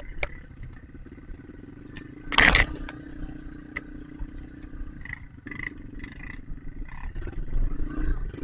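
Dirt bike engine running steadily, with scattered clicks and clatter, a loud short burst about two and a half seconds in, and the engine note growing stronger near the end.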